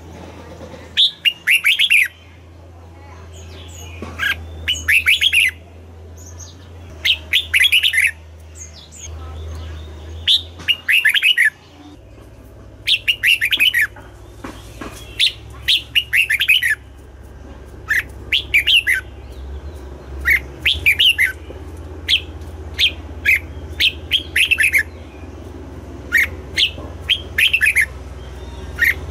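Red-whiskered bulbul singing short, quick phrases of clear notes. The phrases repeat every second or two, more often in the second half, over a steady low hum.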